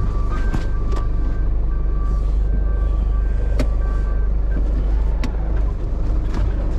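Tow truck engine running with a steady low rumble while its reversing alarm beeps in a regular pattern, stopping about four seconds in. A few sharp knocks come through, the loudest about five seconds in.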